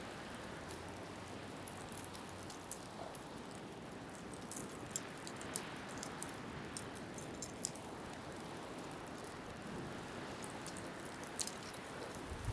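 Seaside wood bonfire crackling, with scattered sharp pops, over a steady rush of wind and surf.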